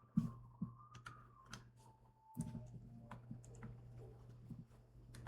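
Scattered clicks and taps on a computer keyboard and mouse, as screens are being adjusted. A low steady hum comes in about two and a half seconds in.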